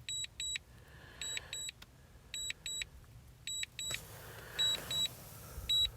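Repeated high-pitched double beeps, about one pair a second, from the DJI Mini 2's remote controller: the alert it sounds while the drone is returning to home and landing. A faint wind hiss rises in the second half.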